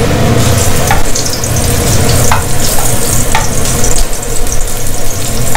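Ginger slices sizzling and crackling in hot oil in an aluminium saucepan while a wooden spatula stirs them, with a few light knocks of the spatula against the pan.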